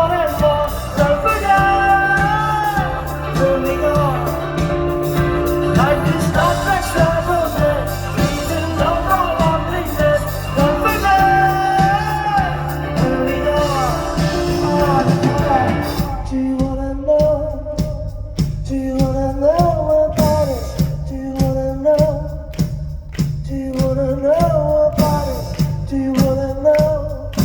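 Live rock-pop band playing with a sung vocal melody. About halfway through, the full band drops back to a sparser accompaniment of bass and drums while the singing carries on.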